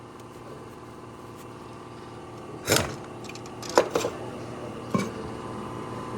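Sharp metal clanks and knocks of tools and parts on a junk engine being stripped of its front cover: one loud hit about two and a half seconds in, a quick pair near four seconds and another near five, over a steady background that grows slowly louder.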